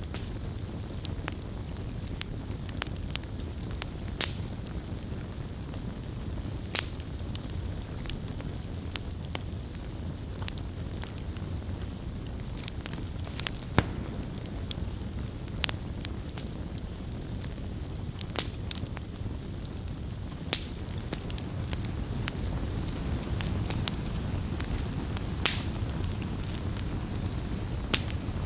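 Wood campfire crackling: irregular sharp pops and snaps, some louder than others, over a steady low rumble of burning.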